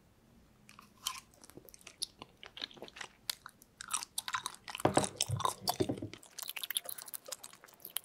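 Close-miked chewing of spicy tteokbokki rice cakes: wet, sticky mouth clicks and chews in an irregular run. It starts about a second in and is loudest around the middle.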